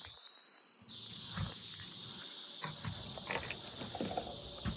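Steady, high-pitched chorus of insects, with a few soft knocks in the second half.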